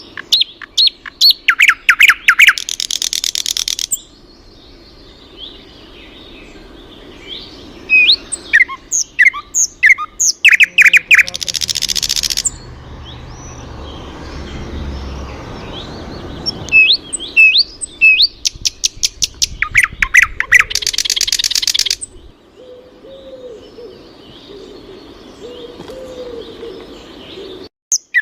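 Songbird singing outdoors: three loud song phrases, each a quick run of repeated notes ending in a high buzzy trill, with softer chirps from other birds between them.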